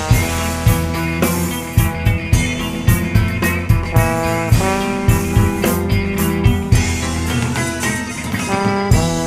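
Band music with guitar and drums playing a steady beat.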